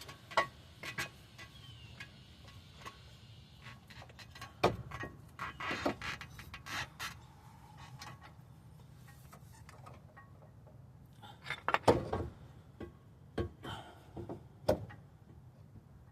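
Intermittent metal clinks and knocks of a heavy steering knuckle and hub being handled and worked into place on a car's suspension. The louder clusters of knocks come about five seconds in and again around twelve seconds in.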